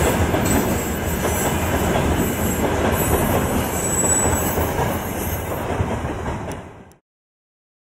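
Freight train wagons rolling away on the rails right after the last wagon has passed, a steady rumble with a thin high wheel squeal above it. It eases off and fades out about seven seconds in.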